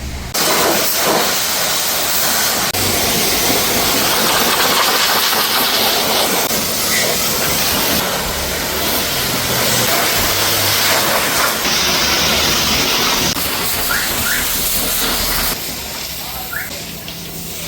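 High-pressure washer jet spraying water, a loud steady hiss that starts suddenly and drops away near the end.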